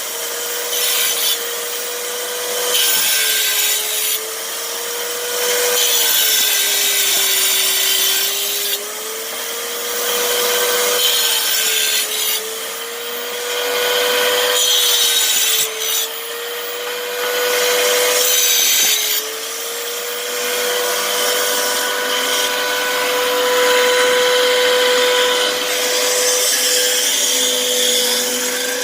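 Electric power tool cutting brick: a steady motor whine with a rasping, gritty cutting noise. The whine sags and recovers several times in the first two-thirds as the cut loads the motor, then holds steadier near the end.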